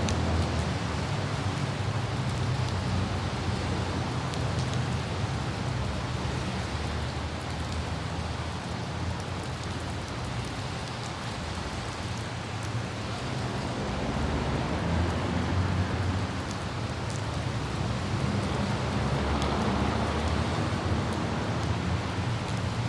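Light rain falling, with scattered faint droplet ticks, over a steady low rumble of road traffic and wind that swells and eases every few seconds.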